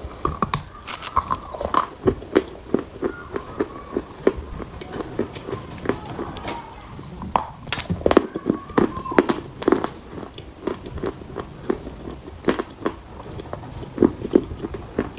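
Dry chalk being bitten and chewed close to the microphone: a run of sharp, irregular crunches, several a second, with louder bites now and then.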